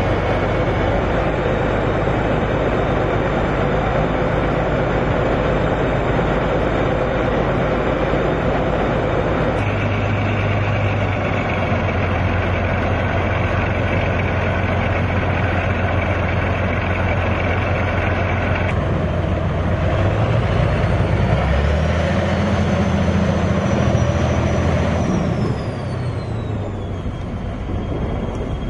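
Heavy machinery running steadily with a deep hum, changing abruptly several times. Later on, a high whine rises, holds, then falls away.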